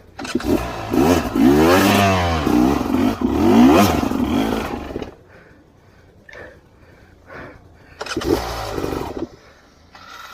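Dirt bike engine revving hard in bursts, its pitch climbing and dropping several times over the first five seconds, then easing off before one more short burst of revs about eight seconds in.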